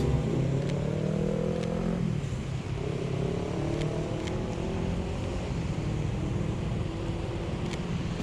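Street traffic: engines of passing vehicles rising in pitch as they pull away, twice in the first half, over a steady hiss of rain and wet road.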